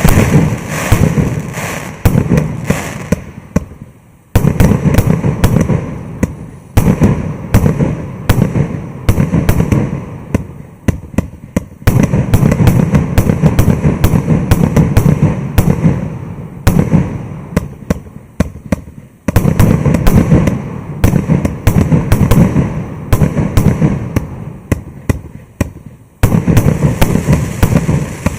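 100-shot fireworks cake firing: rapid volleys of sharp launch thumps and bursting shells. The barrage dips briefly a few times between volleys.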